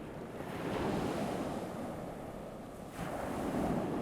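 Ocean waves breaking and washing onto a shore: one surge swelling up about a second in and easing off, then a second wave breaking sharply about three seconds in.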